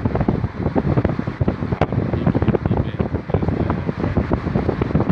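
Wind buffeting the microphone in quick, uneven gusts, with a dull low rumble.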